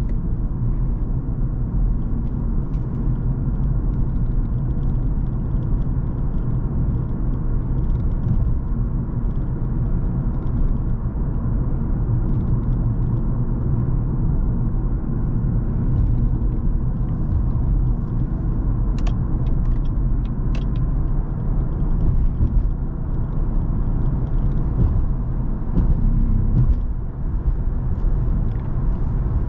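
Cadillac CTS 3.6 twin-turbo V6 driving at a steady pace, a constant low engine and road rumble that dips briefly about 27 seconds in.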